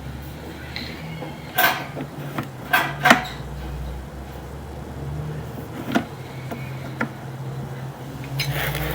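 A handful of sharp knocks and clatters, the loudest a close pair about three seconds in, over a steady low hum.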